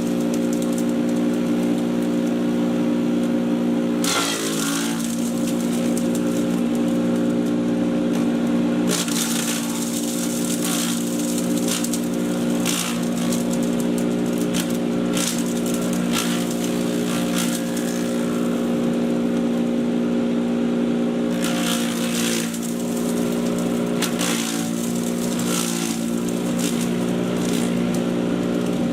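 Patriot 1.5-HP electric chipper shredder running with a steady motor hum. Spells of harsher, crackling noise come and go over it, and the hum dips briefly in pitch about four seconds in.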